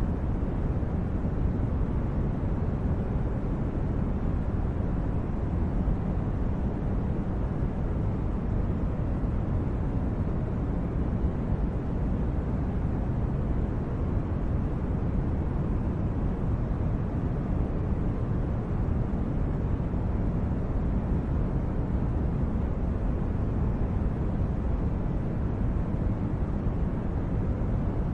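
Steady low rushing noise, deepest in the bass and thinning out toward the treble, unchanging throughout with no tones or separate sounds in it.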